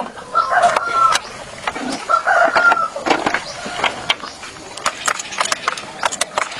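A rooster crowing twice, over a run of sharp clicks and taps.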